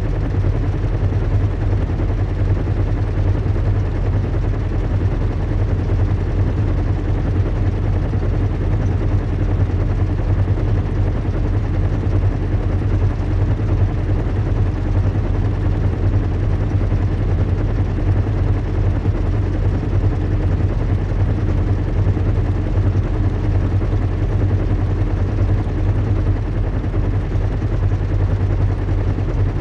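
Recreated zeppelin in flight: a steady, low engine hum and rumble with a fast, even flutter, unchanging throughout.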